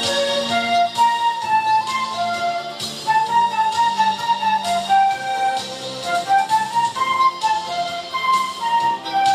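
Student flute ensemble playing a tune from an animation soundtrack: a moving flute melody with other parts held beneath it.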